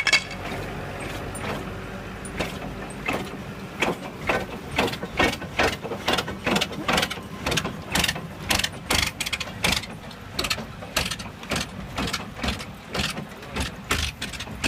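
Mechanical clicking and knocking, about two to four sharp clicks a second in an uneven rhythm, over a low steady hum.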